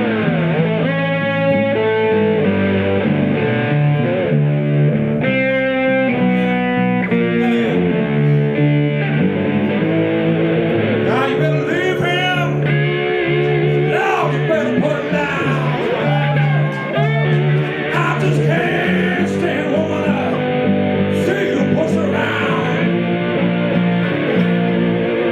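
Live blues guitar duet: an electric guitar plays lead lines with bent, wavering notes over a steady bass line played on a seven-string guitar.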